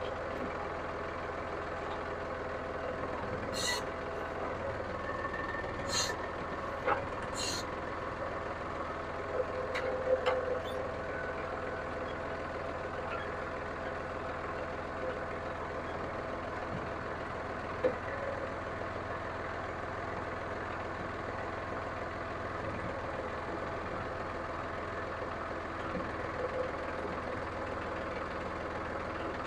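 John Deere 5303 tractor's three-cylinder diesel engine running steadily at idle, with a few short sharp clicks in the first several seconds and a couple of light knocks.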